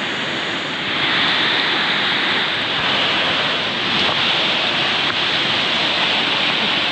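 Waterfall rushing steadily into a river pool, a loud, even roar that grows a little louder about a second in.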